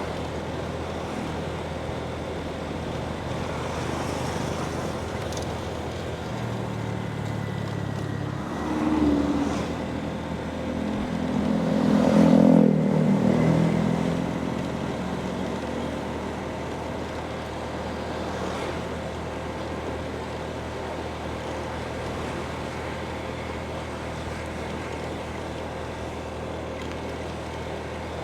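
Motorbike engine running steadily during a ride, with wind rushing past. The engine noise swells louder briefly about nine seconds in and again around twelve seconds in.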